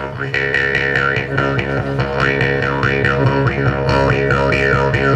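Palm-wood drone pipe, a breath-played instrument like a didgeridoo, sounding a steady low drone. Its bright overtones sweep up and down again and again, imitating frogs croaking in flooded fields.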